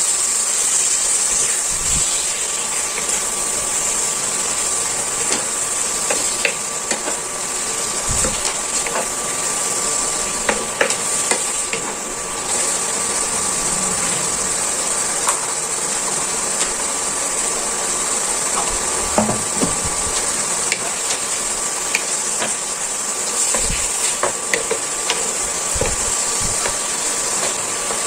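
Chicken pieces with garlic and onion sizzling steadily in a nonstick frying pan, with a wooden spoon scraping and knocking against the pan from time to time as they are stirred.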